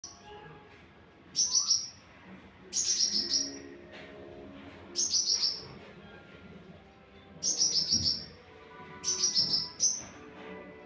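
Small songbird singing short bursts of rapid, high chirping notes, each falling slightly in pitch and lasting about half a second, six times with pauses of one to two seconds between.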